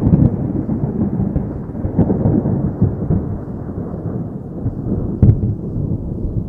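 Rolling thunder, a deep rumble slowly dying away, with one sharp crack about five seconds in.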